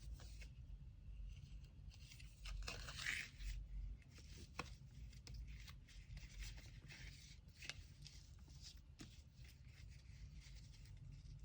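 Faint handling of paper packing materials, with a louder tearing or crinkling stretch about two to three and a half seconds in, then light rustles and a few sharp taps.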